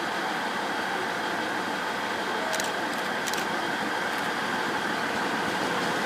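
JR East GV-E400 series diesel-electric railcar with its engine and fans running steadily. Two short clicks come about two and a half and three and a half seconds in.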